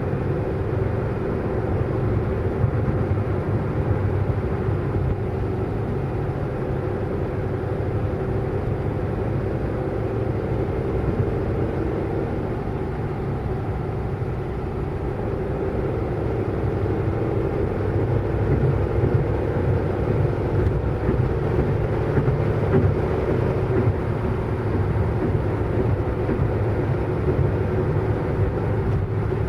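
Car driving at speed: a steady engine drone over low road and tyre rumble, getting slightly louder past the middle.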